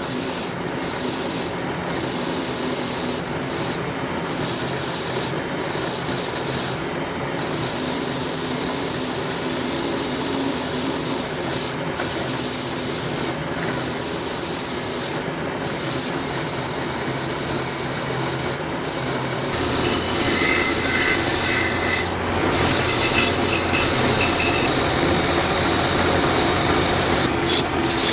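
Steady abrasive rubbing on a part, broken by brief pauses. About twenty seconds in, a louder, harsher sound with a steady low hum takes over.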